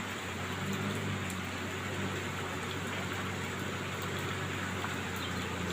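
Steady heavy rain falling, with a low steady hum underneath.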